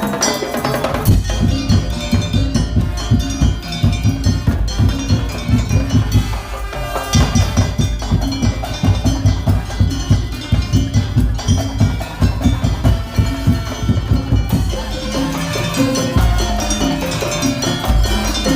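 Madurese daul music: a loud percussion ensemble of big bass drums and fast wooden strokes playing a steady driving rhythm, with a ringing pitched melody over it. The low drums drop out briefly about a third of the way in and again near the end.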